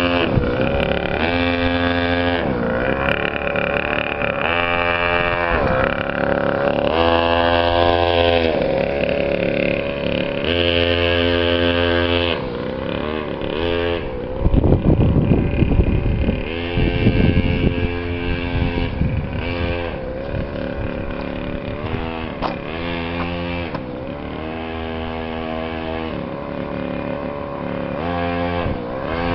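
Small custom chopper motorcycle's engine revving up and easing off over and over, its pitch rising and falling every couple of seconds, with a louder, rougher stretch about halfway through.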